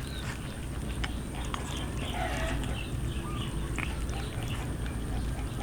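Cats eating roast chicken: scattered clicks and short wet chewing and smacking sounds, over a steady low background rumble.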